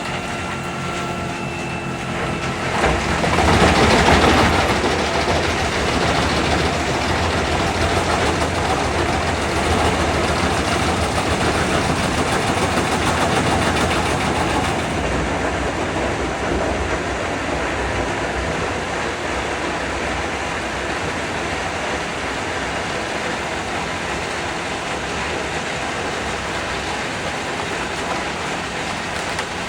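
Large wood chipper, rated at about 800 horsepower, running under load and chipping logs: a steady heavy engine and chipping noise, with a louder surge about three to five seconds in.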